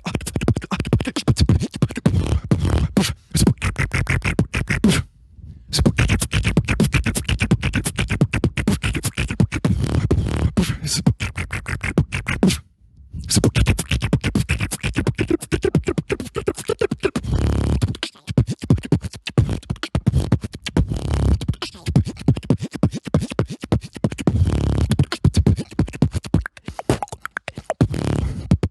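Solo beatboxing: fast percussive mouth sounds over deep bass tones, with two brief silent breaks, about five seconds in and near the middle.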